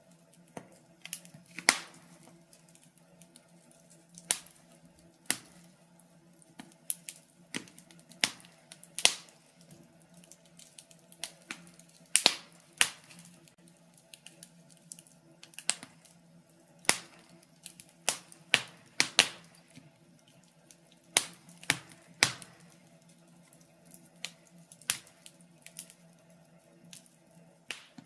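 Wood fire in a fireplace crackling: irregular sharp pops and snaps, some loud and some faint, often about a second apart, over a faint steady low hum.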